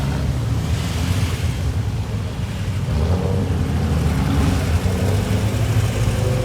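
A car engine running at low revs, with a faint tone rising slowly near the end as it picks up, over wind noise on the microphone.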